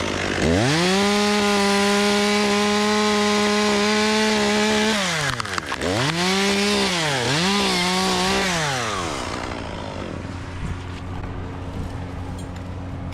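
Two-stroke chainsaw revved up to full throttle and held there for about four seconds, then let off and revved twice more in short bursts before falling back near the end.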